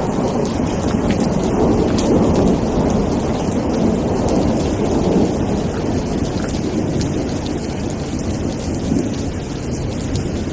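Steady heavy rain with a continuous low rumble of thunder beneath it and scattered drop ticks on top.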